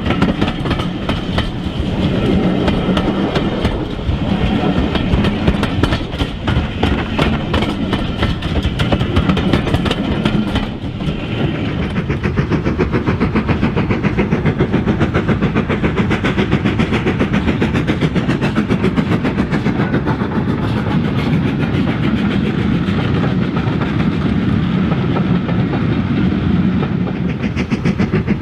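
Model train running on the layout's track: a steady rolling rumble with a fast, even stream of wheel clicks over the rail joints.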